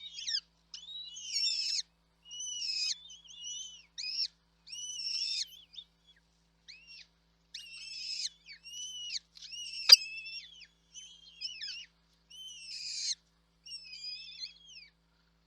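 Small birds chirping in a quick run of short, high bursts with gaps between them, with a single sharp click about ten seconds in.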